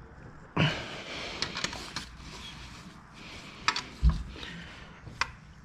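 Clatter of objects being handled: a rustling, scraping stretch with a few sharp clicks, then a low thump about four seconds in and another sharp click near the end.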